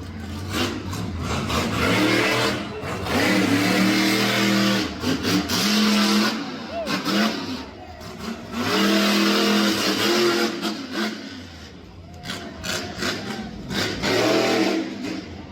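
Monster truck engine revving hard in long bursts, held high and then dropping away: two big spells of revving and a shorter one near the end, over crowd and arena noise.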